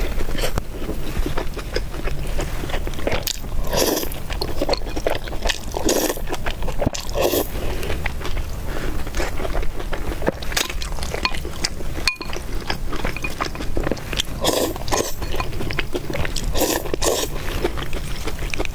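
Close-miked eating sounds: a person chewing and biting into food, with louder bursts of mouth noise every second or two.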